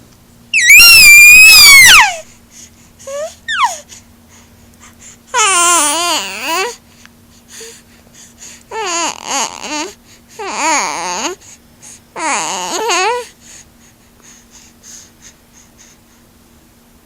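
Baby vocalising: a loud, high, gliding squeal about half a second in, then a few fussy, wavering cries and babbles with pauses between. A faint steady hum runs underneath.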